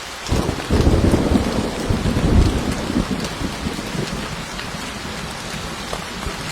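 Steady rain falling, with a thunder rumble breaking in suddenly just after the start, loudest in the first two and a half seconds, then fading back under the rain.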